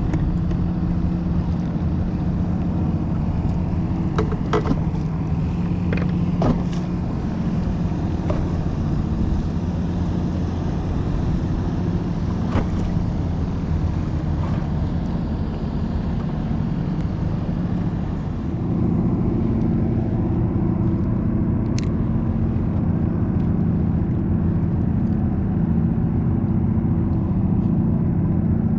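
Boat engine running steadily with a low hum; about two-thirds of the way through it gets louder and rises slightly in pitch. A few faint clicks come earlier on top of it.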